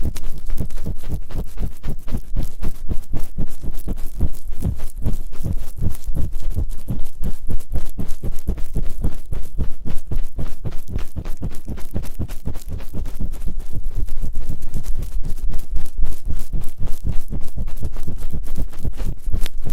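Fast, dense rubbing and scratching against the ears of a binaural microphone: ASMR ear-cleaning sounds in a rapid 'gori-gori' rhythm of many strokes a second, loud and deep in the ears.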